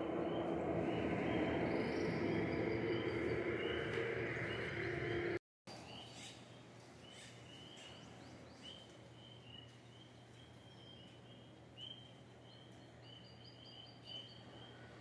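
A bird calling in a steady run of short chirps, about two a second. For the first five seconds this sits over a steady mechanical hum that stops abruptly at a cut, after which the chirping goes on over a quiet background.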